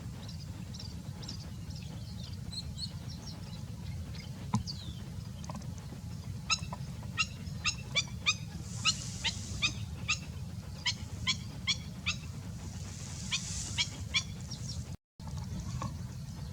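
A bird calling: faint high chirps at first, then, from a few seconds in, a long run of short, loud, harsh calls at about two a second. A steady low hum runs underneath.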